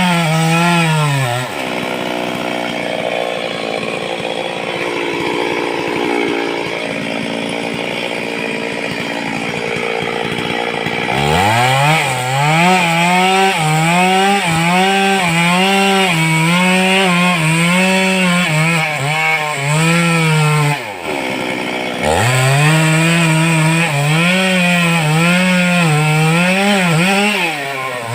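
Stihl chainsaw running at high revs, its pitch repeatedly dipping and recovering as the chain cuts into wood. The engine drops to a lower speed for several seconds soon after the start, and again briefly about two-thirds of the way through, before revving back up.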